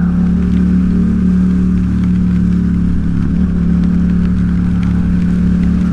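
Yamaha XSR700's 689 cc parallel-twin engine running at a steady pace under way, over a steady rush of road and wind noise.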